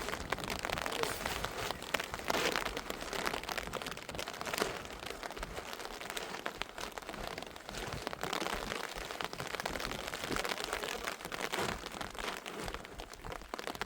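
Rain falling steadily, with many individual drops ticking close by over a constant hiss.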